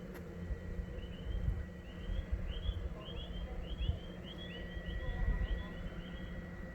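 A bird twittering outdoors, a quick run of short chirps over about five seconds, with wind rumbling on the microphone underneath.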